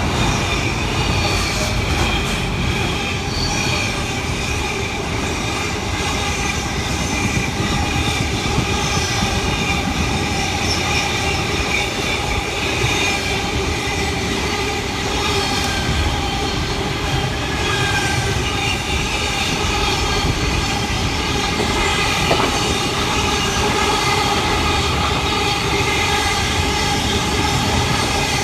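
A train running by with a steady rumble and several steady high squealing tones from its wheels on the rails.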